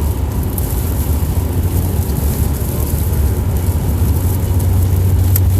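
Steady low rumble of road and engine noise inside a car's cabin at highway speed, with tyre hiss on a wet road. A short click sounds near the end.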